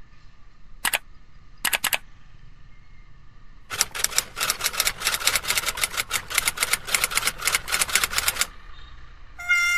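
Mouse-click sound effects: a single click about a second in, a quick double click near two seconds, then a dense run of rapid clicks like typing that lasts about five seconds.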